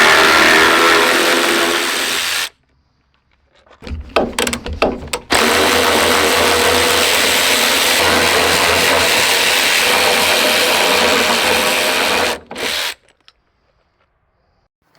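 A power tool run in trigger bursts: a long steady run that cuts off, a few short stop-start blips, another long steady run of about seven seconds, and one last short blip.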